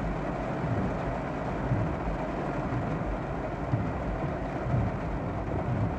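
Heavy rain falling on a car's roof and windshield, heard from inside the cabin as a steady noise.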